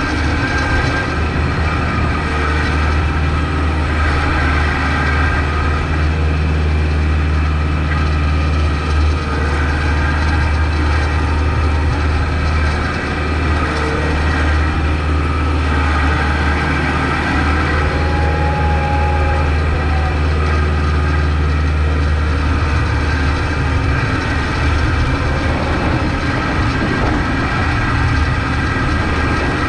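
Kubota MX5200 tractor's diesel engine running steadily, a strong low hum with no break.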